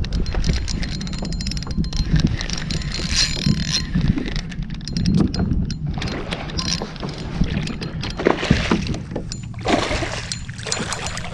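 Wind buffeting the microphone on a kayak, as a steady low rumble, with water sloshing against the hull in surges and scattered light knocks and clicks of gear on the boat.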